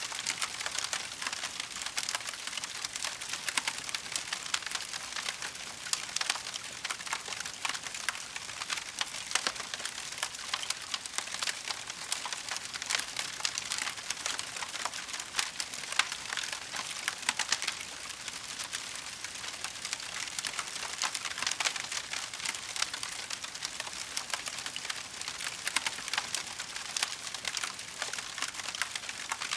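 Burning wood fire crackling steadily, a dense run of small pops and snaps with sharper cracks now and then.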